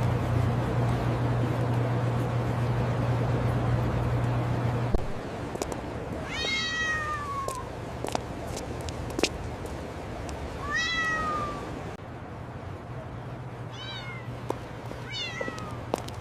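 A kitten stuck in a hole meowing four times, high-pitched calls that each fall in pitch. A steady low hum underneath drops away about five seconds in.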